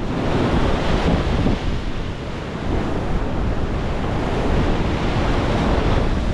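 Big storm waves breaking and surf rushing, with strong wind buffeting the microphone in a steady low rumble.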